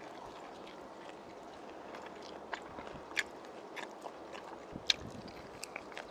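Close-up chewing of spicy braised pork ribs: scattered wet mouth clicks and smacks over a faint steady hiss, the sharpest about five seconds in.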